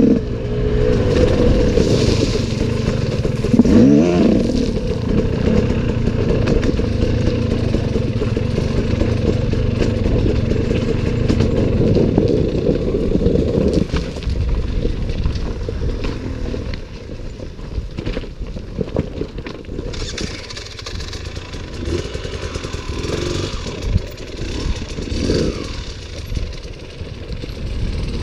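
Enduro motorcycle engine running under a rider, with a quick rev about four seconds in, and rattling from the bike over rough trail. The engine is louder in the first half and eases off after about 14 seconds.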